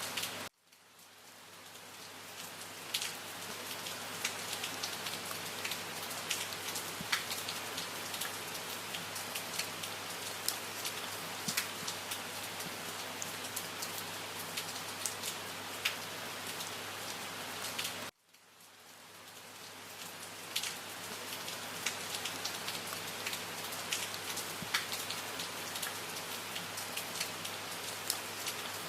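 Steady rain falling, with single drops tapping sharply through the hiss. It cuts out abruptly twice, about half a second in and again about 18 seconds in, and each time fades back up over a few seconds where the recording loops.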